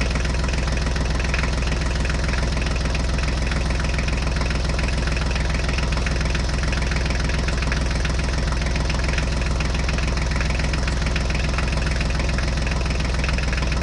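Tractor engine running steadily, with an even, fast knocking putter.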